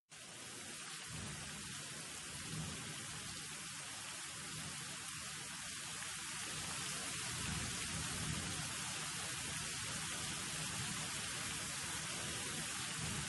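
Steady rain-like hissing noise with a low rumble that swells and fades underneath, starting abruptly out of dead silence.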